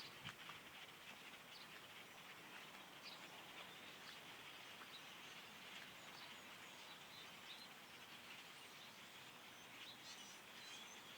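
Many small birds chirping faintly, short scattered chirps that thicken near the end, over a steady low hiss.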